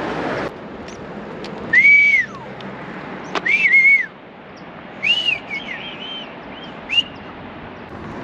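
A person whistling a short tune: five brief notes that arch up and down, over a steady background rush.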